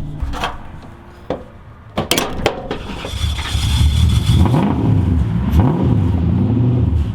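Drift cars' engines revving on track, their pitch rising and falling over and over from about three seconds in, after a few sharp knocks near the start.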